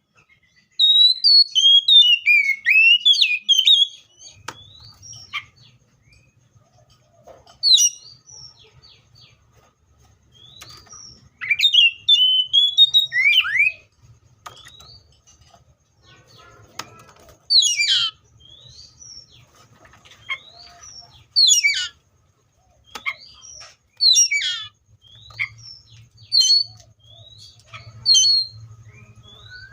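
Seychelles magpie-robin singing: loud phrases of quick, sliding whistled notes, rising and falling, given in bursts about every two to four seconds with short pauses between, the longest phrases near the start and around twelve seconds in.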